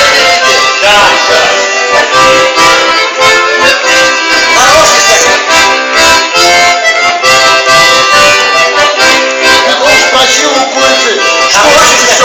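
Accordion music: held chords with a melody over them, played without a break.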